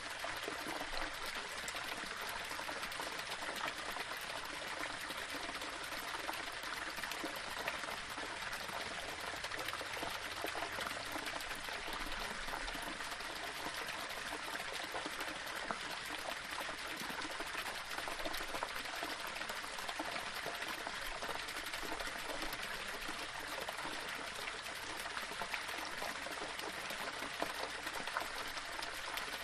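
Small waterfall trickling and splashing over stones: steady running water with fine splashy detail.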